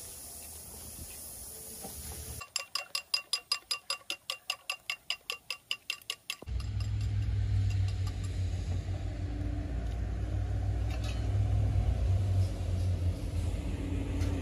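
Eggs being beaten in a bowl: quick, even clinks with a ringing tone, about four a second, lasting about four seconds. Then a steady low rumble starts and carries on.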